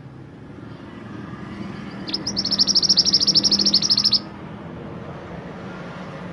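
A mantenan gunung songbird sings one rapid, high trill of about ten notes a second. It lasts about two seconds and cuts off abruptly, over a steady low rumble.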